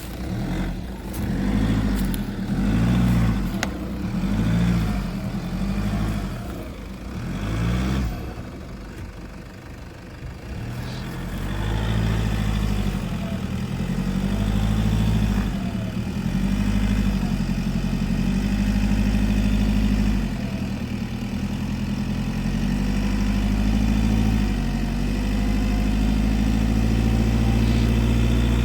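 Nissan Patrol Y61's engine revving in repeated surges for the first several seconds, easing off briefly, then pulling steadily under load with smaller surges.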